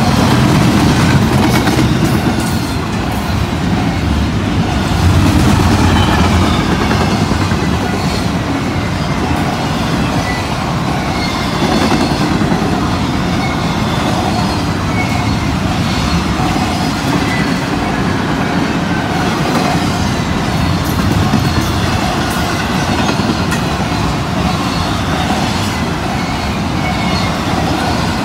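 A fast CSX intermodal freight train's cars passing close by: a loud, steady rumble and rush of steel wheels on rail, with scattered clicks as the wheels cross rail joints.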